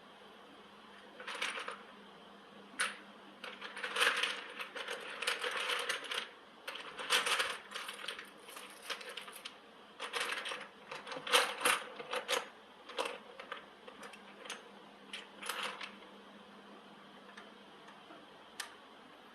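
Irregular clinking and rattling of small metal parts being handled, in scattered bursts that die down after about sixteen seconds, with one last click near the end.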